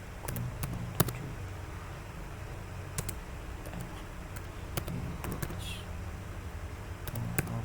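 Computer keyboard keystrokes, a few irregular clicks spread out with pauses, one louder about a second in, over a low steady hum.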